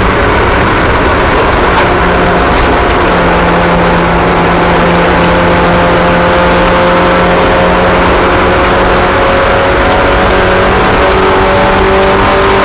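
Small racing cars' engines running together at steady speed, several engine notes overlapping and drifting slightly in pitch, with no revving or sudden change.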